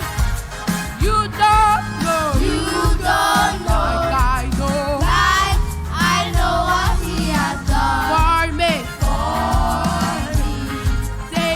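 Live gospel worship music: a children's choir singing with wavering, sliding held notes over a band with steady bass and drums.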